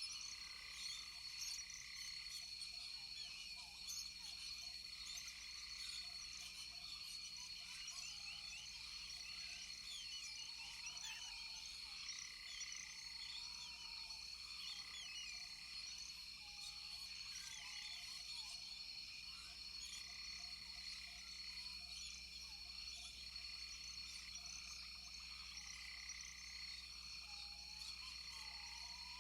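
Rainforest night-chorus-style ambience of frogs calling over a steady high insect drone, with many quick overlapping chirps and a note repeating about every second and a half.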